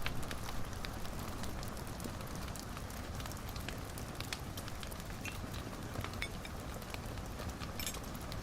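Wood fire in a fireplace crackling: irregular sharp pops and snaps over a steady low rushing noise, with a quick cluster of crackles near the end.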